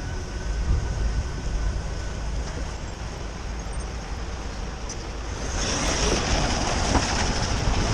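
Road noise from a moving car: a steady low rumble and hiss, with a louder hiss coming in about five and a half seconds in.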